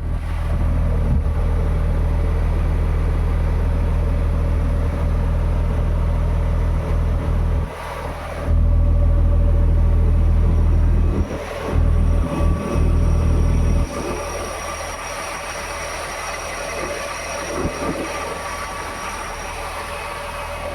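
Crawler crane's diesel engine running, with a heavy low rumble that drops away suddenly about fourteen seconds in, leaving the engine running more quietly. A faint, steady high whine sounds through the middle stretch.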